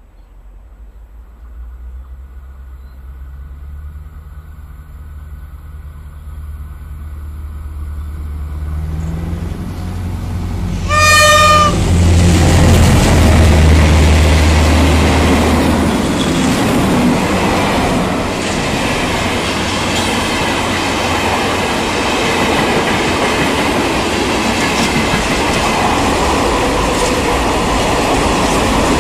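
Diesel-hauled track-maintenance train approaching and passing close by: a low locomotive engine rumble growing steadily louder, one short horn blast about eleven seconds in, then loud wheel-and-rail noise as the ballast-cleaning machines and hopper wagons roll past.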